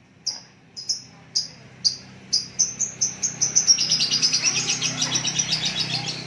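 Caged songbird singing. High, sharp notes come faster and faster over the first few seconds, then run together into a fast, high trill.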